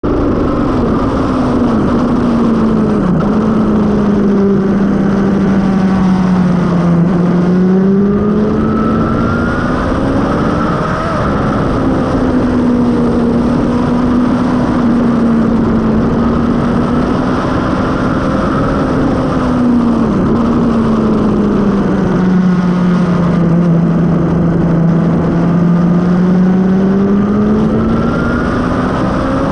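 Suzuki GSX-R750 K5's inline-four engine, breathing through a Mivv carbon exhaust, running hard on track as heard onboard, with wind rushing over the camera microphone. The engine note swells and sags several times as the rider accelerates and eases off, with a sudden dip about 3 seconds in and again about 20 seconds in.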